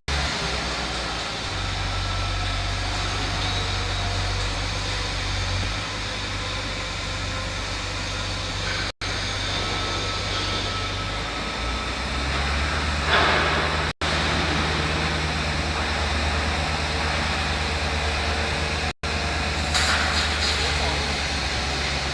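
Heavy transport truck's engine running with a steady low drone that shifts in level now and then, with short bursts of noise about a third of the way in and again near the end. The sound cuts out for an instant three times, about five seconds apart.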